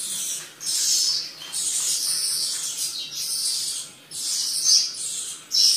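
Birds giving a run of short, harsh, hissy calls high in pitch, about one a second.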